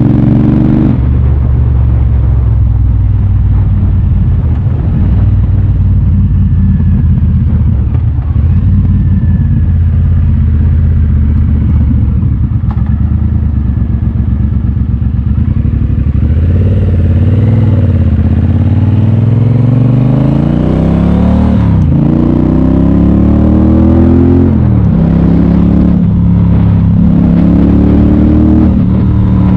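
Triumph Bobber's parallel-twin engine running on the move. It cruises steadily at first, then accelerates with a rising pitch about two-thirds of the way through, drops at an upshift, rises again and drops at a second shift, and settles into a steady, higher cruise.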